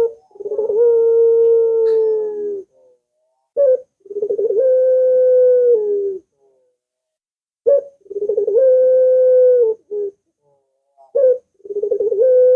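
Barbary dove (puter) cooing repeatedly. Each call is a short note followed by a long, drawn-out wavering coo that drops in pitch at the end, coming about every four seconds.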